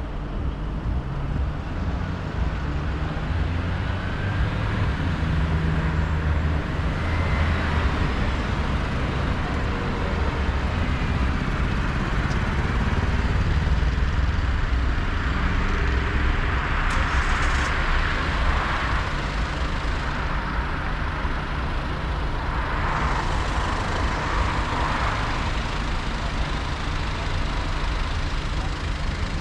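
City road traffic heard from a moving e-scooter: a steady low rumble, with vehicles swelling past several times.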